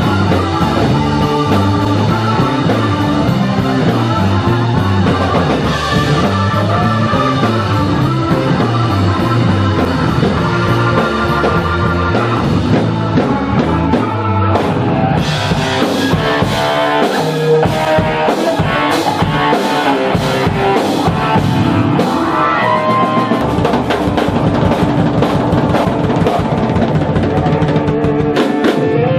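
Live blues-rock band playing an instrumental passage with electric guitar and drum kit; the drums and cymbals grow busier about halfway through.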